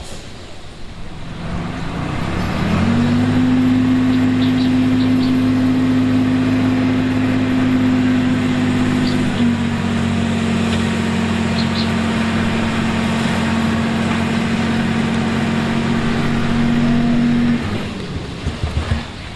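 Diesel engine of a heavy construction machine revving up about two seconds in and held at steady high revs, then dropping back near the end.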